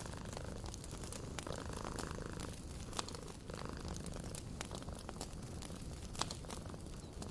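Fireplace crackling with scattered sharp pops over a steady low rumble, with a cat purring.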